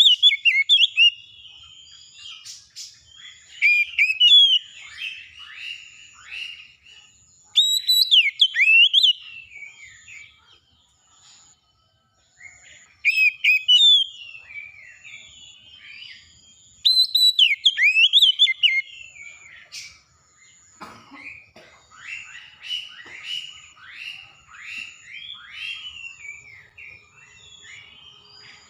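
Songbird song: loud whistled, swooping phrases about every four to five seconds, with softer rapid chattering between them. A faint high note repeats in short pulses about once a second behind the song.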